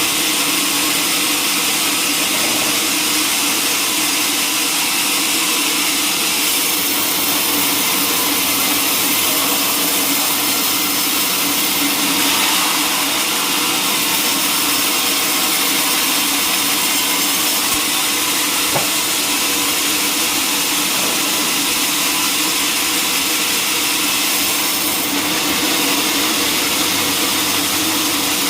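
Sawmill saw running steadily: a constant loud hiss with a steady machine hum beneath, without a break.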